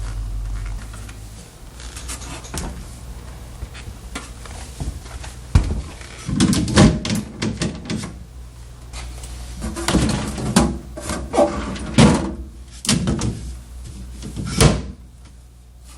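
LG French-door refrigerator's doors and drawers being opened and shut. It gives a series of knocks and thuds, bunched together a little after five seconds in, again around ten to twelve seconds, and once near the end.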